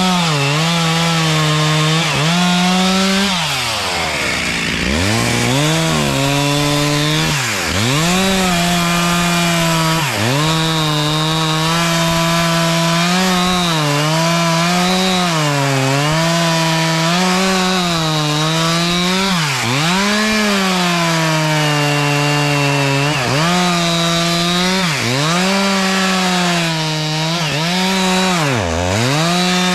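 Chainsaw running at high revs while cutting wood. Its engine note dips sharply and picks back up every couple of seconds.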